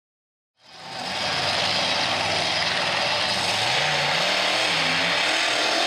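Monster truck engine running loud and revving, its pitch rising and falling, fading in about half a second in.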